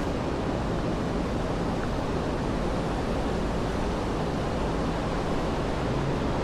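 Steady, even rushing noise of the city street, with no distinct events standing out.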